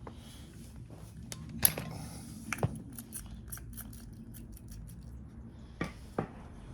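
Hand tools clicking and knocking against the metal of an engine during dismantling: a string of sharp clinks, loudest about a second and a half in and again near the end.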